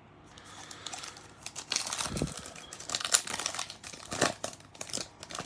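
Plastic wrapper of a trading-card pack crinkling as it is torn open and handled, a rapid run of small crackles and rustles.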